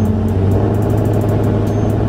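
Drag car's engine running with a steady, low note while staged at the starting line, just before launch.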